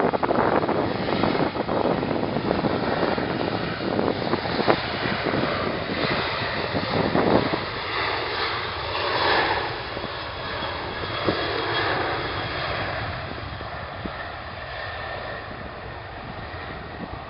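Fixed-wing aircraft's engines passing, the noise loud at first and slowly fading away.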